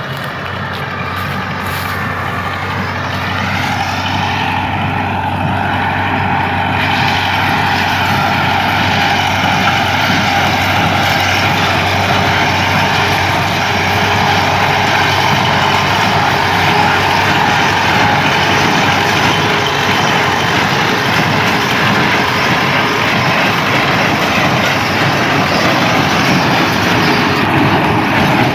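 A tractor engine runs steadily under load with a constant low hum, growing louder over the first few seconds and then holding even.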